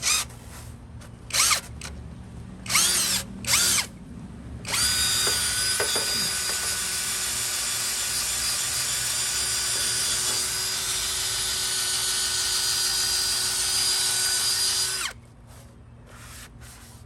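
Power drill spinning a scrubber pad against a porcelain sink: four short bursts that spin up and down, then held at steady speed for about ten seconds before stopping abruptly.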